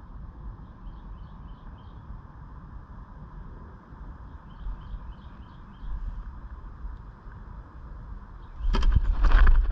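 Steady low background rumble with two short series of faint bird chirps, four and then five in quick succession. Near the end, a much louder burst of noise lasting about a second.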